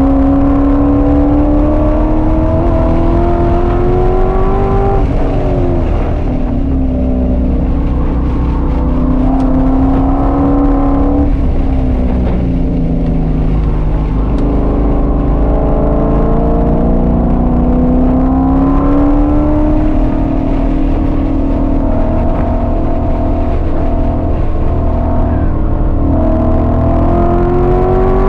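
A 2001 Corvette C5 Z06's cammed LS6 V8 with long-tube headers, heard from inside the cabin while being driven hard on track. The revs climb under throttle, fall sharply about five and twelve seconds in as the car lifts and brakes for corners, stay low for a couple of seconds, then climb and hold again.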